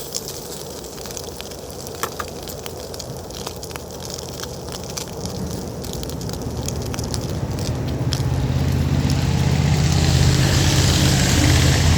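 Food sizzling and crackling as it browns in a frying pan. From about halfway, a road vehicle approaches and grows steadily louder until its engine and tyre noise drowns everything out near the end.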